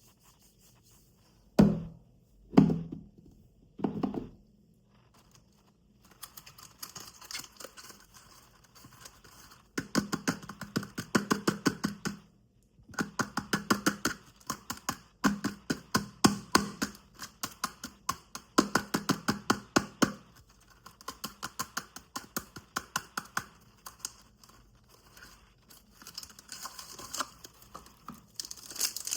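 Soap being cut and crushed for ASMR: three dull thunks in the first few seconds, then repeated bursts of fast, crisp crunching, each lasting a second or two with short pauses between.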